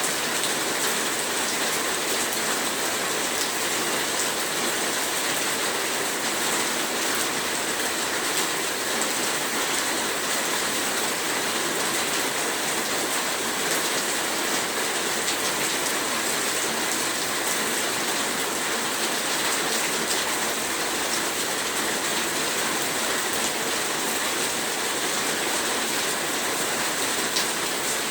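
Heavy rain falling steadily, a dense even hiss with countless small drop ticks and no pauses.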